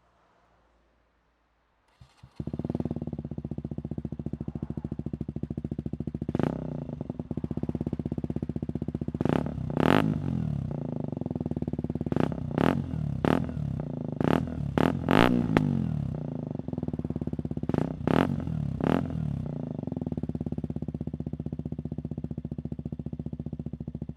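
KTM Duke 125's single-cylinder four-stroke engine, breathing through a Radical Racing GP Carbon Black exhaust with its dB-killer missing, starts about two seconds in and settles into a steady idle. It is then blipped repeatedly, with short revs rising and falling in pitch, mostly in the middle stretch, before returning to idle.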